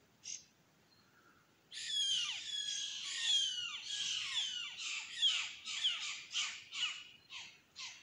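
A wild bird calling: one short note, then a long run of quick falling notes that starts about two seconds in and slows into separate notes toward the end.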